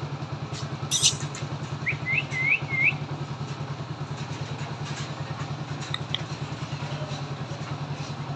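Motorcycle engine idling steadily with an even low pulse. A sharp click comes about a second in, and four short rising chirps follow between two and three seconds in.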